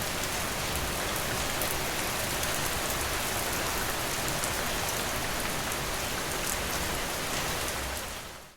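Steady rain falling, with faint ticks of single drops, fading out near the end.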